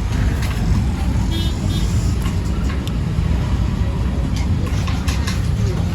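Steady low rumble of road traffic, with scattered light clicks.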